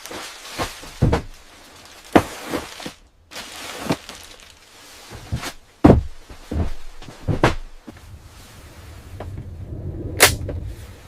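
A series of irregular knocks, thuds and short scrapes, about a dozen in all, with a sharper, brighter hit near the end.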